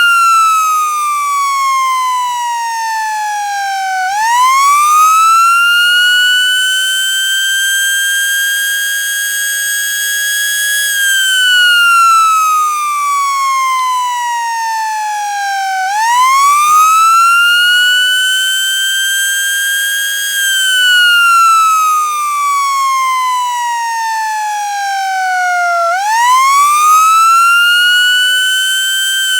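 FS 28H siren sounding a wail cycle. The pitch falls slowly for several seconds, sweeps quickly back up over about two seconds, holds high, then falls again. It rises three times, about every eleven seconds.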